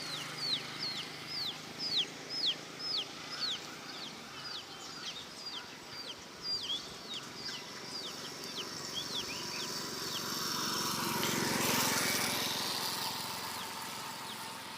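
A chick peeping over and over, about two high, falling peeps a second, which stop about nine seconds in. A rushing noise then swells and fades near the end.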